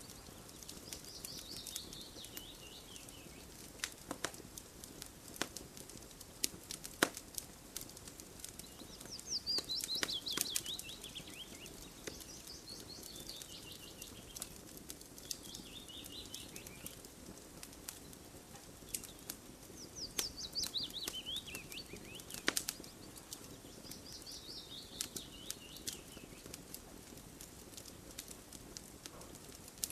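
Crackling campfire with sharp pops scattered irregularly, while a songbird sings a trilled phrase of about two seconds that falls in pitch, several times over.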